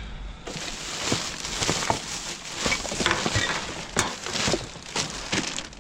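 Rummaging by hand through a pile of household rubbish: irregular rustling and crinkling of bags, with light clinks and knocks as items are moved.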